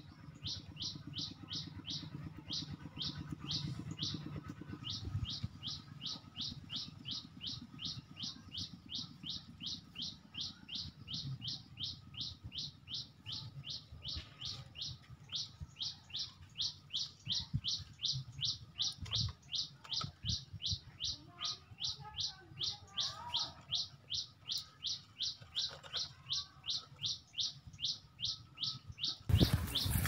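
A bird calling one short, high, falling note over and over, about three times a second, very evenly, with a soft low rumble beneath. It cuts off abruptly near the end.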